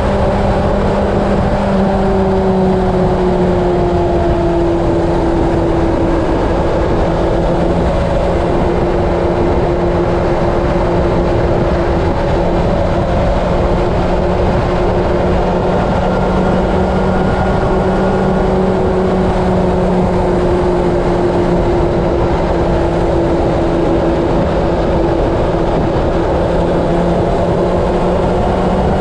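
Steady engine drone at cruising speed under a loud rush of wind noise, with a hum whose pitch drifts slowly.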